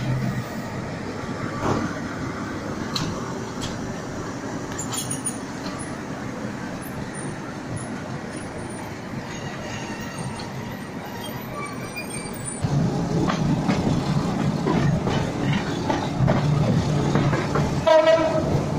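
Train running, heard from aboard: steady wheel-and-rail noise with scattered clicks. About two-thirds of the way through it gets louder, with a low steady hum. A short horn sound comes near the end.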